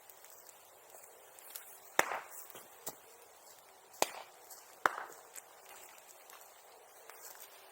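Burning wood in a bonfire popping and crackling: three sharp, loud cracks about two, four and five seconds in, with fainter crackles between.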